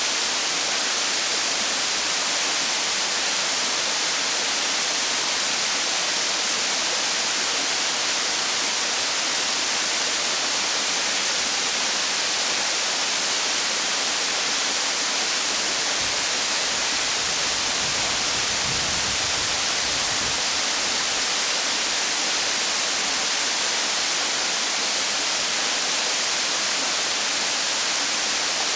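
Waterfall rushing steadily, an even hiss with a brief low rumble about two-thirds of the way in.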